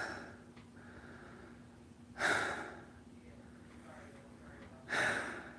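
A person breathing heavily close to the microphone: three loud exhales, one at the start, one about two seconds in and one near the end, over a faint steady hum.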